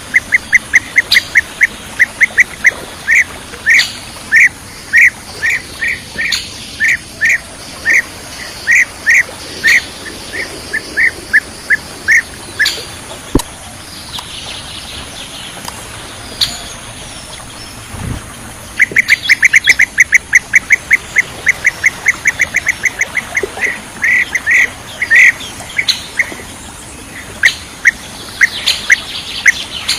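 Bee-eater calls: a run of short, sharp chirps about three a second, breaking off after about twelve seconds, then starting again about nineteen seconds in as a faster, rattling series of chirps.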